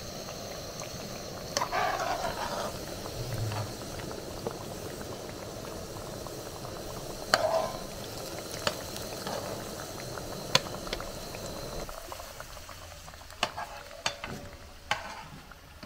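Ripe plantain slices frying in hot oil in a pan, a steady sizzle, with scattered sharp clicks and taps as the slices are turned and lifted out.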